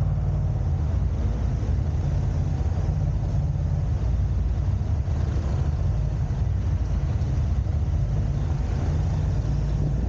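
Steady low rumble of a car driving, a mix of road and wind noise with no distinct events.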